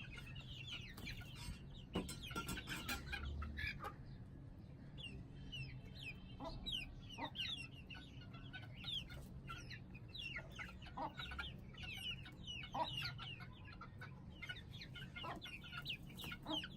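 A flock of young Aseel chicks peeping and clucking, with many short, high calls sliding downward and overlapping throughout. There is a single knock about two seconds in.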